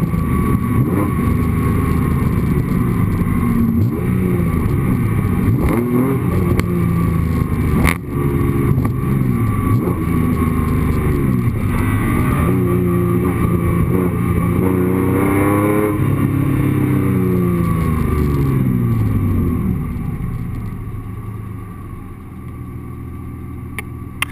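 Honda NSX V6 engine heard from its engine bay, revving with its pitch rising and falling again and again, including a few longer climbs. About twenty seconds in it eases off and settles to a quieter, steady running sound.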